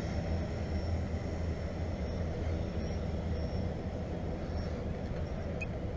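Steady low outdoor rumble, like wind on the microphone and distant traffic, with a faint, slightly wavering high whine through most of it.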